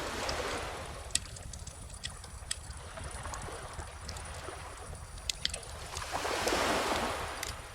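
Wood bonfire crackling with scattered sharp pops, over calm ocean waves washing in: a small swell at the start and a larger one building and fading about six seconds in.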